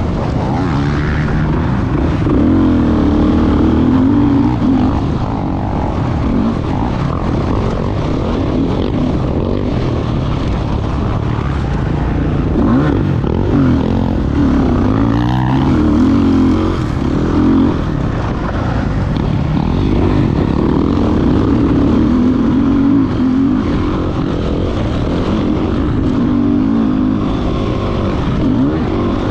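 Motocross dirt bike engine running hard, its pitch rising and falling over and over as the throttle is opened and rolled off.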